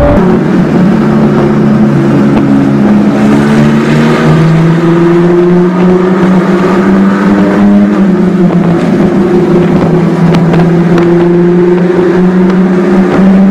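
Nissan GT-R R35's twin-turbo V6 running at steady moderate revs while the car cruises. The engine pitch steps down about four seconds in and shifts up and down a few more times.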